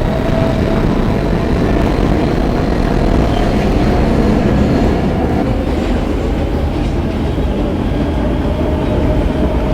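R160B Siemens subway car running between stations, heard from inside the car: a loud, steady rumble and rattle of wheels on track, with a faint steady whine over it.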